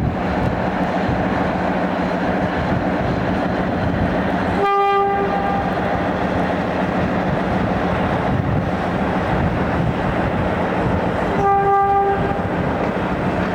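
Train running with a steady drone and rumble, its horn sounding twice: two short blasts about seven seconds apart, the second a little longer.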